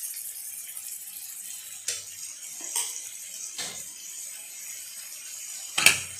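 Meat frying in oil in a pan, a steady high sizzle, with a few sharp clicks and pops and a louder one near the end.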